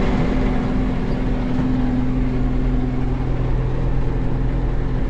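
Tractor engine running at a steady speed: a constant drone with a few fixed pitches over a low rumble.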